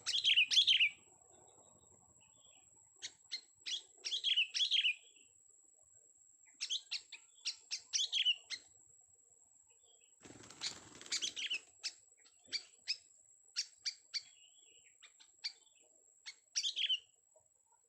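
Young sooty-headed bulbul calling in repeated short bursts of sharp chirping notes. Two brief rustling bursts, one at the very start and one about ten and a half seconds in, with a faint steady high-pitched whine underneath.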